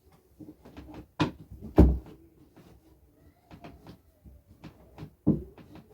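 Knocks and thumps of bed sheets being pushed and tucked in around a mattress, with handling noise between them; the loudest thump comes about two seconds in.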